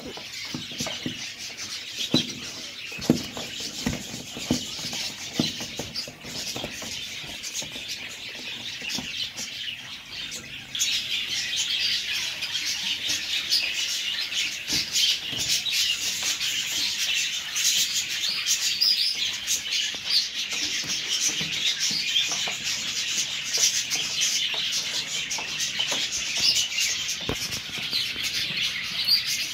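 Many small birds chirping and twittering continuously, getting louder about eleven seconds in, with scattered sharp taps during the first third.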